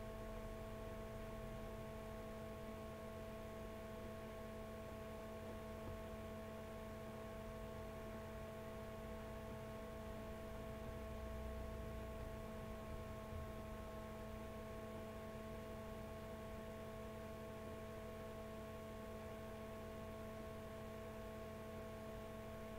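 Steady electrical hum made of several fixed tones, unchanging throughout, over a faint low rumble.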